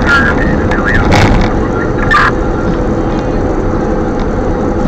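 Strong wind buffeting the microphone in a loud, unbroken rumble, with a few short snatches of voice from a radio.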